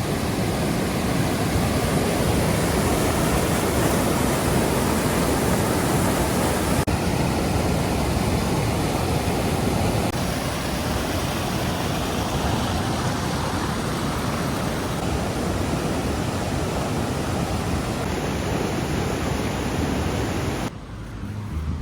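Steady, even rush of cascading water, cutting off abruptly near the end.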